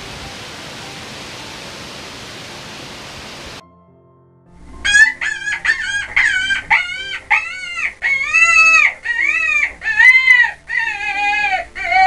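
A steady hiss of outdoor ambience that cuts off after about three and a half seconds. Then comes a quick run of short, high-pitched animal calls, about two a second, each rising and falling in pitch.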